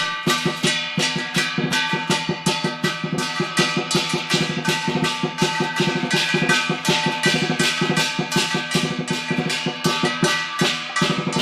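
Chinese lion dance percussion: a drum beaten in rapid strokes, about four or five a second, with crashing hand cymbals and a gong ringing over the beat.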